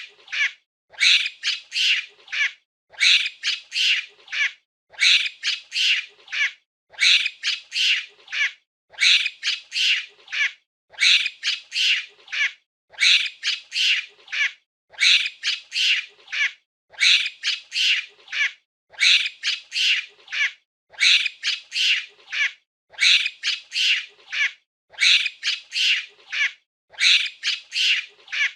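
Monkey giving short high-pitched calls in quick runs of three or four, the same run repeating about every two seconds like a loop.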